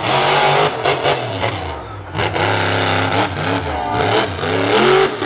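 Monster truck engine revving hard, its pitch climbing and dropping several times, with short sharp cracks in between.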